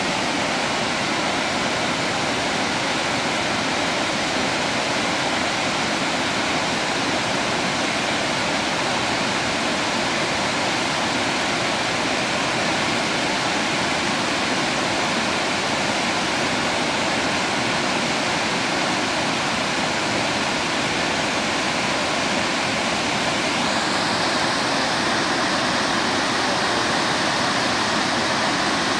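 Triple Falls, a large multi-tiered waterfall, rushing steadily. The sound turns brighter and hissier about 24 seconds in.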